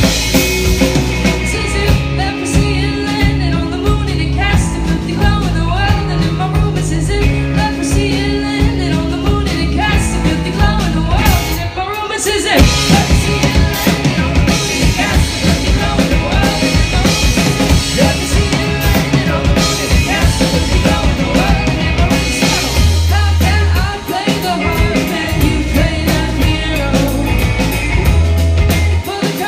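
Live rock band playing a song at full volume: drum kit, bass and guitar, with singing over it. The low end briefly drops out about twelve seconds in before the full band comes back.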